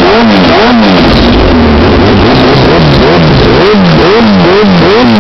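Kawasaki Ninja ZX-14's inline-four through a Brock's Alien Head aftermarket exhaust, loud, revved in quick throttle blips, the pitch rising and falling about twice a second, with a steadier stretch in the middle.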